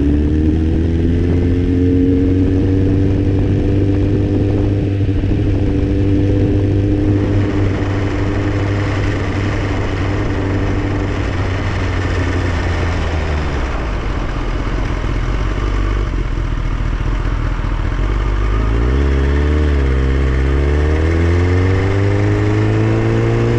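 Sport motorcycle engine running while riding, with wind rushing over the bike. About halfway through the engine note drops as the throttle closes, then near the end it wavers and climbs again as the bike accelerates.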